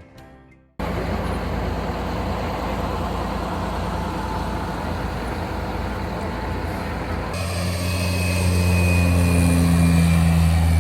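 Boat engine running with rushing wind and water noise. About seven seconds in it cuts to a louder, steadier engine hum with a faint high whine over it.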